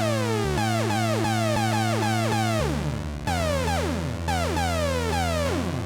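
ARP Avatar guitar synthesizer sounding with its envelope triggering: held low notes under quick falling pitch sweeps that repeat about twice a second. The held notes change a few times, and the sound starts fading out near the end.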